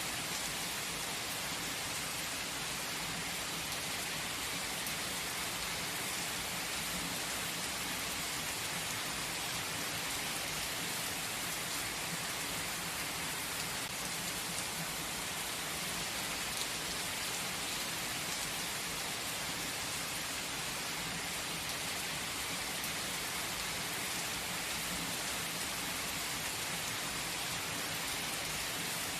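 Steady, gentle rain falling on surfaces, an even hiss with fine scattered droplet ticks.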